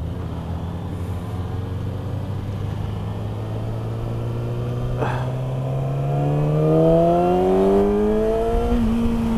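2019 Yamaha R6's inline-four with a Yoshimura exhaust, at speed: running steadily, then revving up smoothly in one pull from about four seconds in and levelling off near the end.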